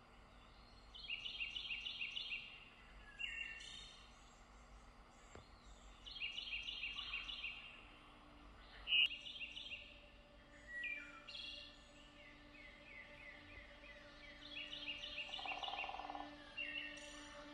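A songbird singing several short phrases of quickly repeated high notes, a few seconds apart, over a faint outdoor hush. Soft sustained music tones come in about halfway.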